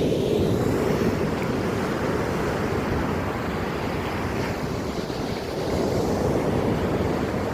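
Sea waves washing in, with wind rumbling on the microphone; the noise swells slowly, rising again about six seconds in.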